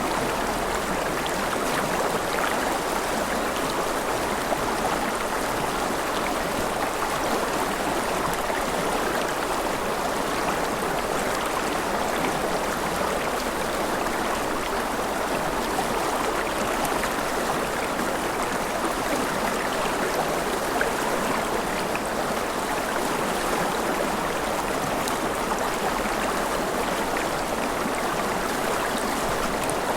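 Forest river flowing steadily over rocks, an even rushing and babbling of running water.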